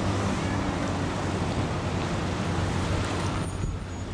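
Wind buffeting the microphone over the rush of water along a small sailboat's hull, with a steady low hum underneath; the hiss thins briefly near the end.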